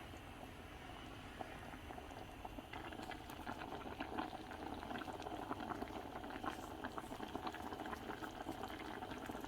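Creamy chicken and mushroom sauce bubbling in the pan: a steady hiss with small pops that grow busier about three seconds in. A single click comes at the very start.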